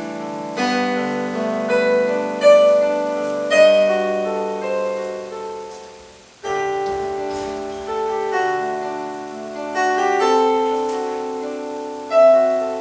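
Slow solo piano music: notes and chords struck and left to fade. The phrase dies away about six seconds in, then a new chord begins and the playing carries on.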